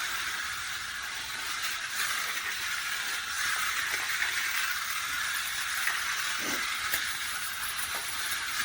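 Battery-powered toy race cars running along a flexible plastic track: a steady, hissing whir.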